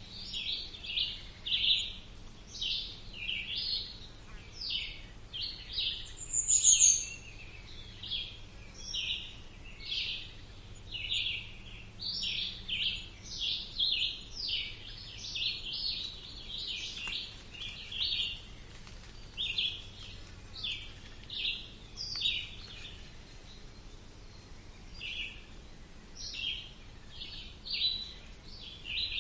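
Songbirds chirping in a steady stream of short, quick notes, one to three a second, with a brief high trill about six seconds in that is the loudest call.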